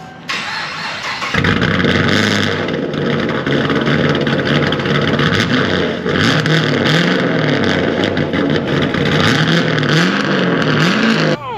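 Cammed Camaro engine starting and then running through its new X-pipe exhaust and larger tips, loud and steady, with the revs rising and falling over and over in the second half.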